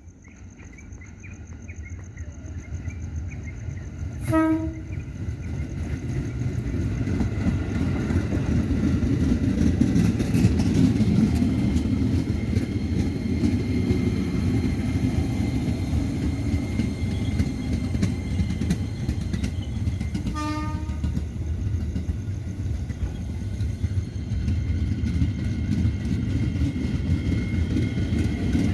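Train approaching and passing, the rumble of its wheels on the rails growing loud over the first several seconds and then staying steady. A short train-horn toot sounds about four seconds in, and a fainter second toot about twenty seconds in.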